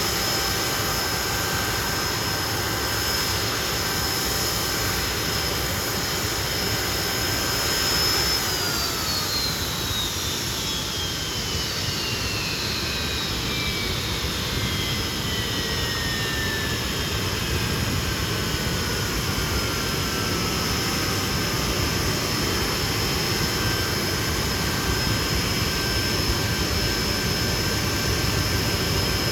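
Hawker Siddeley Nimrod's jet engines running with a steady whine. About eight seconds in, one whine starts falling in pitch and keeps sliding down for about fourteen seconds, an engine spooling down, while the other engines keep running.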